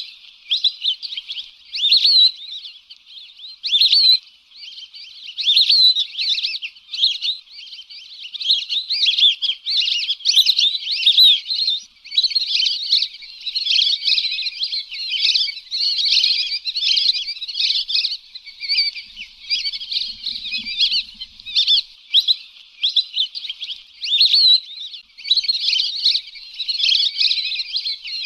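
A flock of lesser whistling ducks giving their shrill whistled calls, many overlapping in a continuous chatter.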